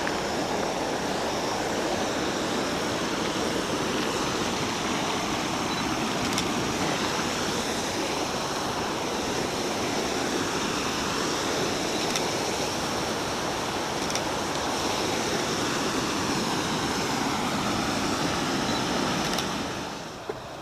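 Creek rushing steadily over a waterfall, running unusually high. The sound drops away suddenly near the end.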